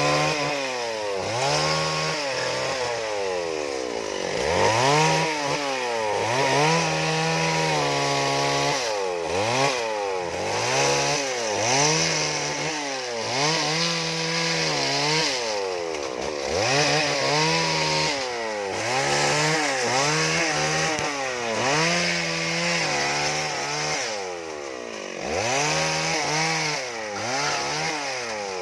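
Chainsaw carving wood, its engine revving up and dropping back again and again, a rise and fall every second or two. Now and then it holds a steady pitch for a moment while cutting.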